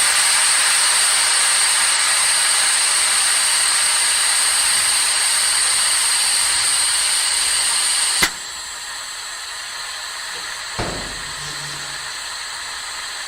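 A jet of pressurised gas hissing loudly and steadily, with a high whistle on top. About eight seconds in it cuts down suddenly with a click to a quieter, steady hiss, and a soft thump follows a few seconds later.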